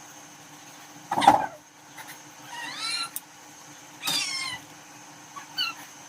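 A cat meowing: two arched calls of about half a second each, then a short chirp near the end, after a louder short thump about a second in.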